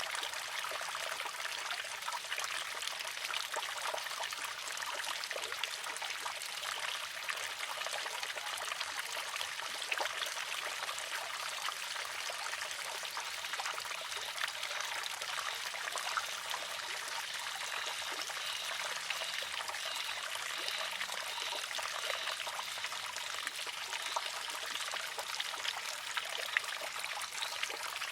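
Water trickling steadily from a spout into a wooden shishi-odoshi as its arm fills, with small scattered splashes and drips.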